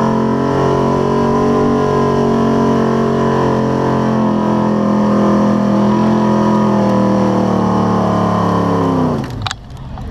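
Nissan Titan's VK56 5.6-litre V8 running hard at steady high revs under load while pulling the sled. About nine seconds in, the revs fall sharply and the engine sound drops away as the throttle is released.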